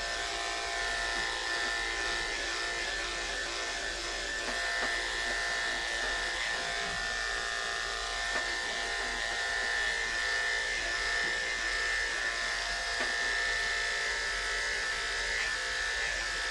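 Andis electric pet clippers running with a steady buzz, shaving through a heavily matted cat's coat.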